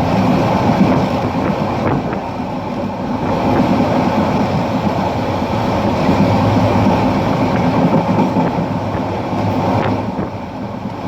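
Parabat Express passenger train running at speed, heard from aboard: a steady, loud rumble of wheels on the rails, with a few faint clicks.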